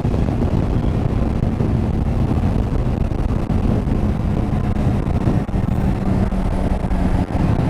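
Motorcycle engine running at a steady note while riding, with wind rushing over the microphone.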